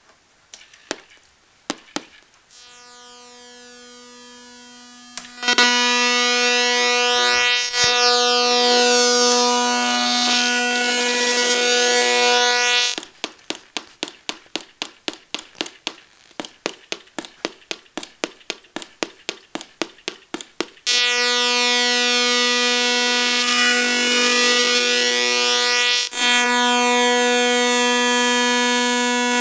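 Small loudspeakers giving out a steady, buzzy electronic tone that starts quietly and turns louder after a few seconds. In the middle it breaks into a fast train of even clicks for several seconds, then the steady tone returns.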